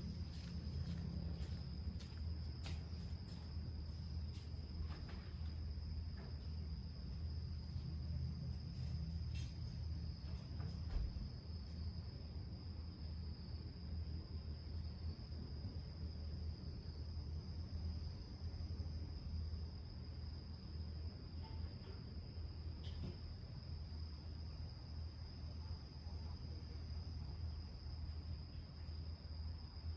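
Insects trilling steadily at dusk: one continuous high trill and a higher chirp pulsing about twice a second, over a constant low rumble, with a few faint crackles in the first dozen seconds.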